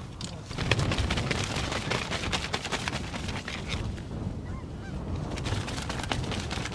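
A flock of geese calling, many short honks overlapping into a continuous din.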